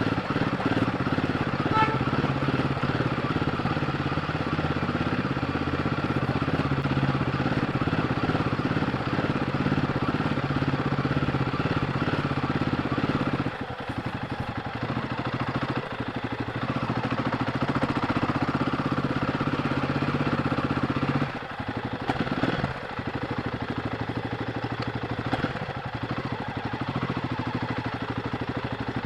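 Royal Enfield Guerrilla 450's single-cylinder engine running on its stock exhaust while riding. The engine sound drops back about halfway through and again past two-thirds of the way, then carries on a little quieter.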